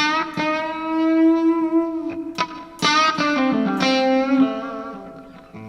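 Electric guitar played through a 2-watt single-ended valve amplifier built around one 6AF11 Compactron tube: a short phrase of picked notes, some left to ring and fade.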